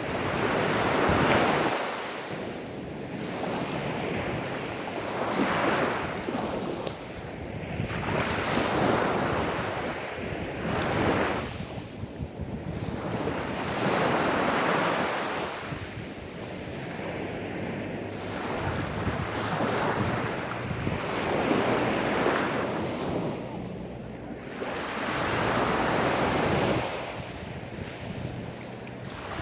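Small sea waves breaking and washing up a sandy beach, one gentle swell of surf every three to four seconds.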